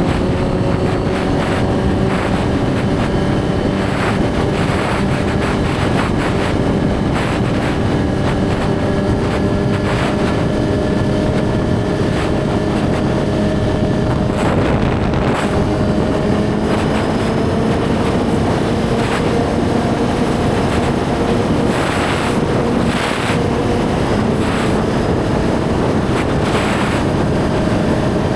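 Suzuki GSX-R1000 inline-four engine running steadily under way, its pitch slowly rising, with wind noise rushing over the microphone.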